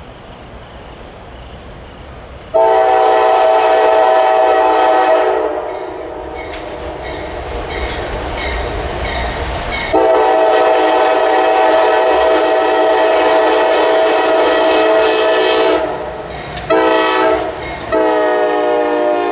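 Locomotive air horn blowing the grade-crossing signal as a chord: two long blasts, a short one, and a final long one, over the low rumble of the approaching train.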